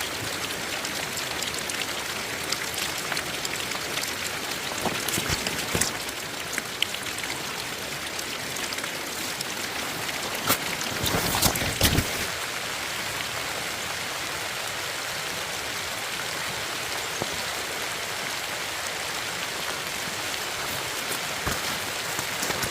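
Steady rain falling, an even hiss, with a few knocks and thumps about halfway through.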